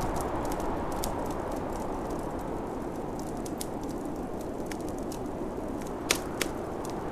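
Steady rushing wind of a snowstorm over a crackling wood fire, scattered small crackles throughout and two sharper pops about six seconds in.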